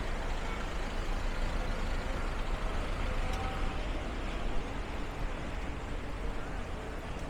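Motor vehicle running: a steady low rumble over general street noise.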